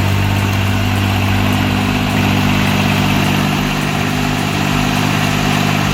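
Heavy machine's diesel engine running steadily at an even pitch.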